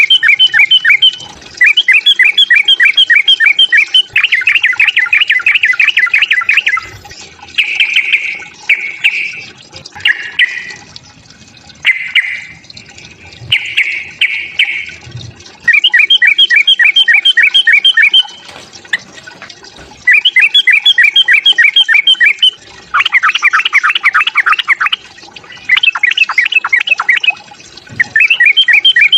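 Yellow-vented bulbul (trucukan) calling in its agitated 'fighting' song: loud phrases of rapid, evenly repeated chattering notes, each phrase lasting one to three seconds with short pauses between, and a rougher, broken stretch of calls in the middle.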